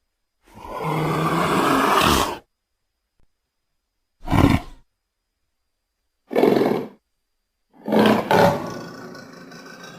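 Indian leopard calling: one long roar of about two seconds, then two short calls, then a double call that trails off near the end, each separated by silence.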